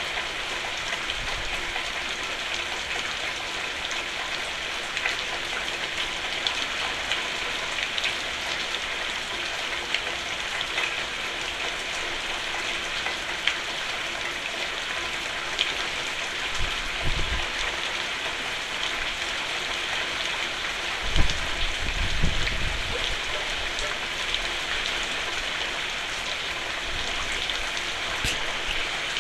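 Steady rain falling on a roof, a dense patter with individual drops ticking through it. Brief low rumbles come about halfway through and again about two-thirds through.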